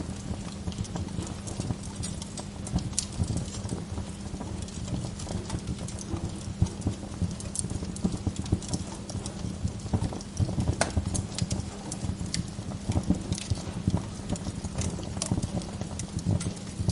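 Fire in a fireplace crackling: irregular sharp pops and snaps, several a second, over a low steady rumble of the flames.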